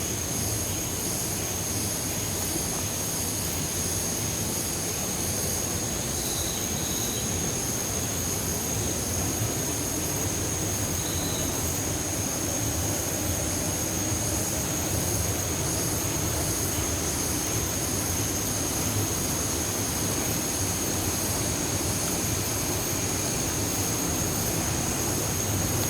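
Steady rushing of a waterfall and cascading stream water, with a constant high-pitched whine over it.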